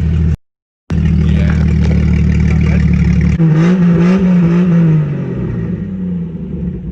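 Jeep engine through a straight-piped exhaust, idling, then revved up and down a few times from about halfway through before easing back toward idle.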